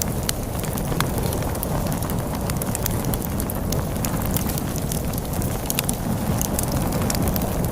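Crackling log fire: a steady run of sharp, irregular pops and snaps over a low rumble of wind.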